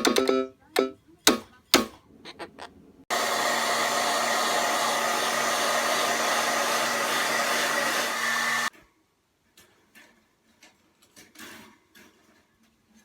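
A loud, steady rushing noise of a small motor blowing air, starting suddenly about three seconds in and cutting off abruptly after about five and a half seconds. Short percussive hits come before it, and faint clicks after.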